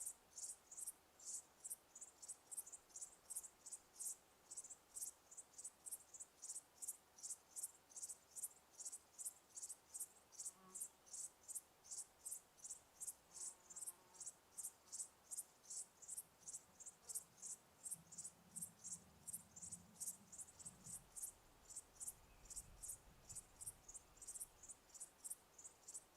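Crickets chirping steadily, a quiet, even run of high chirps about three a second.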